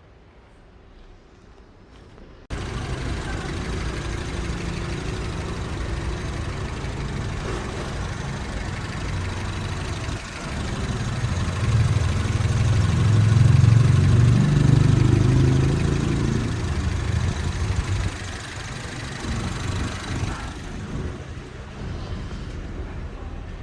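Honda Accord 2.0-litre engine running, cutting in suddenly a couple of seconds in, growing louder and deeper for several seconds in the middle, then settling back to a lower level near the end.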